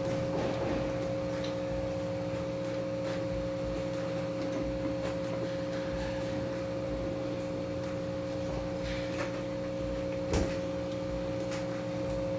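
Rocks being set into an aquarium hardscape, giving a few light knocks, the sharpest about ten seconds in, over a steady hum of two held tones.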